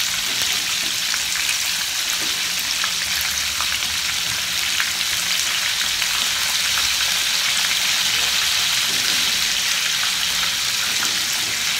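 Tofu frying in hot oil in a pan: a steady, dense sizzle and crackle. Light clicks of metal tongs turning the pieces over come through now and then.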